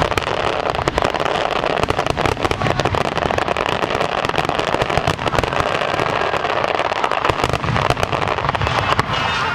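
Fireworks crackling densely: a continuous rattle of many rapid overlapping pops and bangs.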